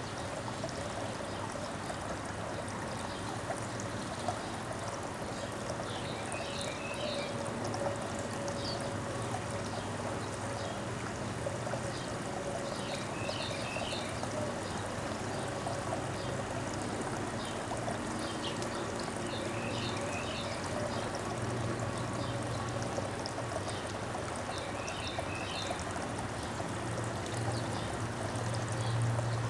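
Steady trickling, flowing water, with a few short bursts of high small-bird chirps scattered through it.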